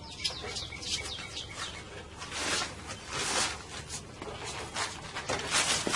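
Small birds chirping repeatedly in quick, high, downward-sweeping notes, over soft rubbing noises from hands working the rubber reveal molding around the glass edge.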